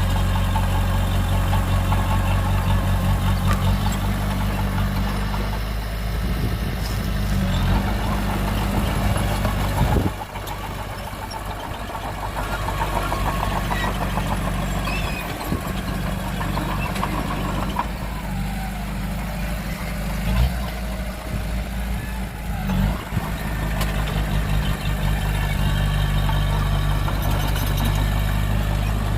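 Heavy diesel engines of earthmoving machinery running steadily at low revs. The engine note drops back about ten seconds in, and a few short knocks come near the end.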